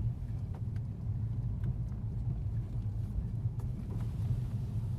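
Steady low rumble of a car driving, heard from inside the cabin, with a few faint light clicks or rattles.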